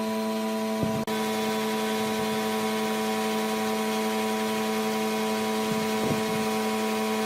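Electric power tool motor running steadily at constant speed, a fixed-pitch hum over a hiss, with a brief break about a second in.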